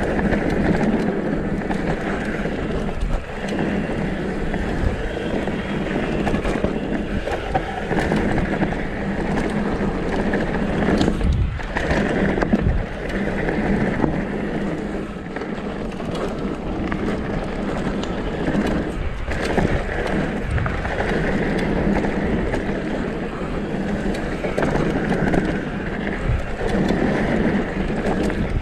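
Downhill mountain bike running fast down a rocky dirt trail: steady wind rush over the microphone and tyre and trail noise, with occasional sharp knocks as the bike hits bumps and rocks.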